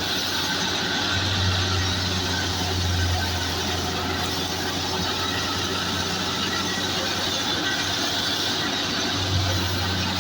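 Fiat 640 tractor engine running steadily under load, driving a wheat thresher. The engine's steady hum sits under the thresher's continuous high whirring hiss.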